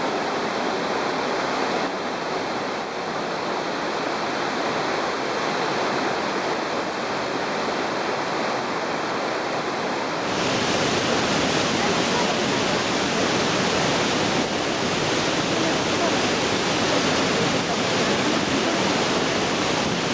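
Pailón del Diablo waterfall pouring: a steady rush of falling water that suddenly gets louder and brighter about ten seconds in.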